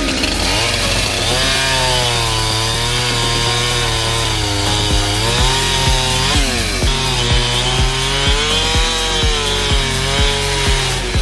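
Husqvarna 372XP chainsaw cutting through a log, its engine pitch sagging and rising as the chain loads up in the wood. A steady music beat runs underneath from about halfway through.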